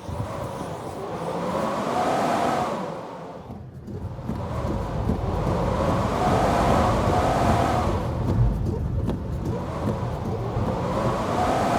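Snowstorm wind gusting. It swells and fades in surges every four to five seconds, with a whistling pitch that rises and falls in each gust.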